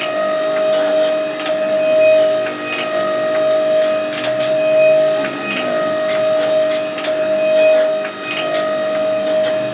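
Metalworking machine running on metal with a steady whine, its loudness rising and falling in a regular cycle about every second and a half, with scattered sharp ticks.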